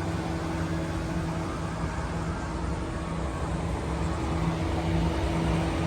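A steady low mechanical hum with a constant background of noise.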